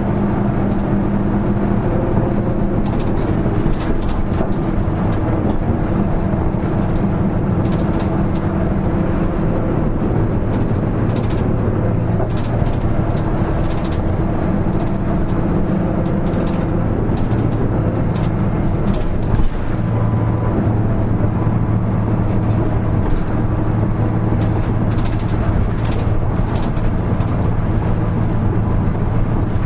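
Hino Rainbow HR (KL-HR1JNEE) city bus heard from inside the cabin while driving: the diesel engine runs steadily under way, with frequent interior rattles and clicks throughout. A single sharp knock comes about two-thirds of the way through, as the engine note dips briefly.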